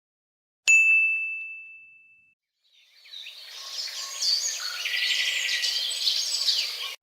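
A single bright bell ding that rings and fades over about a second and a half. After a short gap, a chorus of birds chirping and singing.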